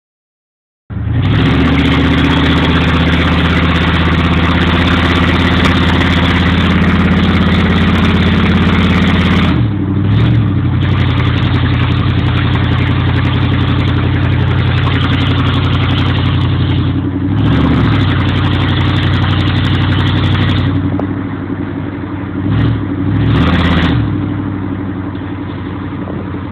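Straight-piped 1996 GMC Yukon V8 exhaust running loud and steady at idle, with brief revs about ten seconds in, around seventeen seconds, and twice near the end, after which it settles a little quieter.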